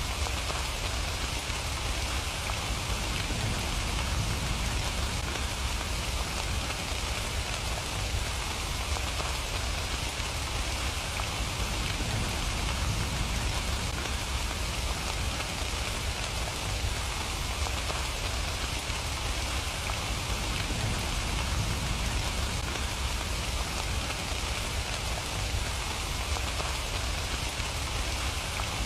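Steady rain falling, a continuous even hiss of drops with a low rumble underneath.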